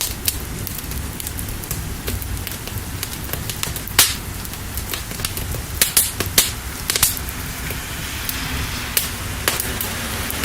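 Fire crackling, with irregular sharp pops over a low steady rumble, mixed with a steady hiss of rain. The rain hiss grows a little louder about eight seconds in.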